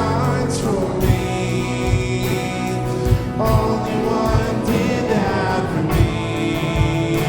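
Live church worship band playing a slow song with a steady drum beat, and some singing.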